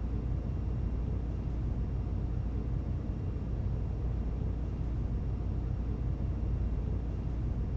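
Steady low rumble with a faint hiss above it, even throughout.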